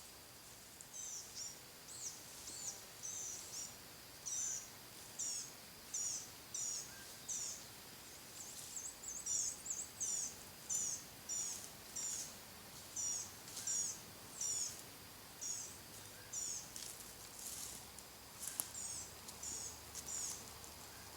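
A songbird singing a long run of short, high, slurred notes, about two a second, over a steady thin insect hum, with one sharp click near the end.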